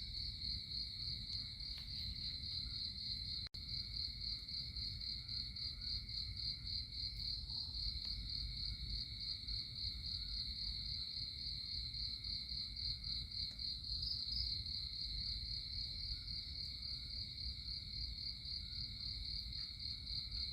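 Crickets trilling in a steady, continuous high chorus, with a low rumble underneath. The sound cuts out for an instant about three and a half seconds in.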